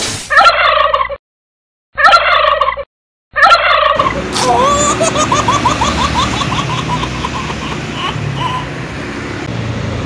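Turkey gobbling sound effect: three short gobbling bursts broken by two abrupt silences. Then road traffic with a truck passing close, and a long rapid gobble rattling over it about halfway through.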